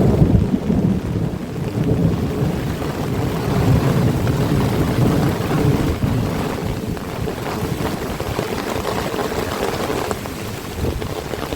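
Heavy rain falling steadily, under a loud low rumble that surges and eases, strongest in the first half.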